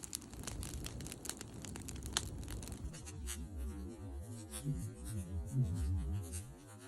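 Campfire wood crackling, with many sharp pops and snaps. After about three seconds the crackle thins out to occasional snaps over a low rumble.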